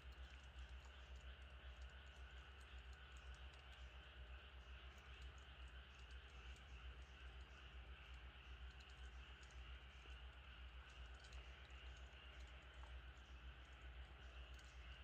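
Faint, irregular crackling over a low steady hum, from food cooking over a wood fire.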